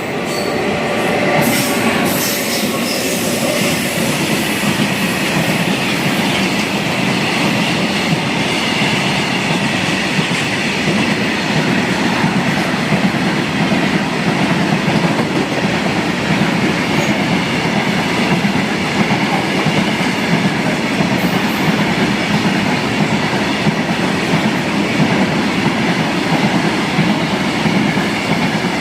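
Train running on the rails behind twin WAG-9 electric locomotives: a loud, steady rumble of wheels on track, with a faint thin high tone above it through most of the stretch.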